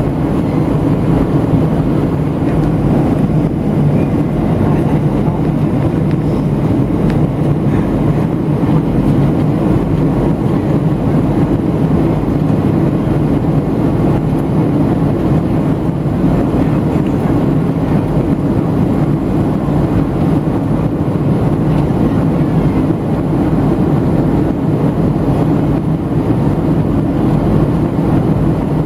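Steady drone of a Boeing 737-700's twin CFM56 turbofans and rushing airflow, heard from inside the passenger cabin in flight, even and unchanging throughout.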